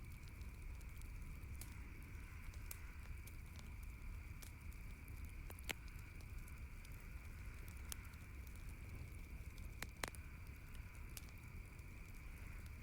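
Campfire crackling, with scattered sharp pops and snaps. The two loudest come about six and ten seconds in, over a steady low rumble.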